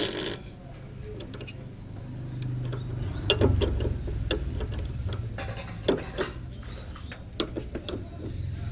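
Irregular metallic clicks and knocks of a hand tool working on a loose bolt, the sharpest about three seconds in, over a steady low hum.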